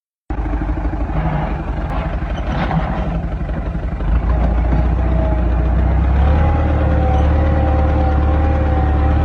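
Tractor's diesel engine running with a low, pulsing beat, then louder and steadier about four seconds in as it revs up hauling a loaded trolley. A steady high whine joins it about a second later.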